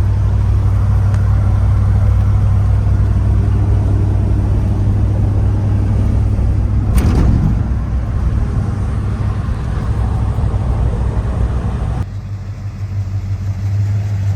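1986 Ford F250's 460 V8 engine running steadily through its new exhaust and mufflers, a deep, even rumble. A brief louder burst comes about seven seconds in, and the sound cuts to a slightly quieter take about twelve seconds in.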